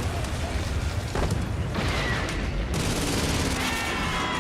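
Dense gunfire and explosions over a steady heavy rumble: a war-film battle sound mix.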